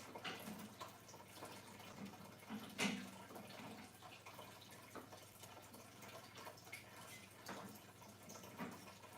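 Faint scattered taps and clicks, the loudest about three seconds in, over a low steady hum.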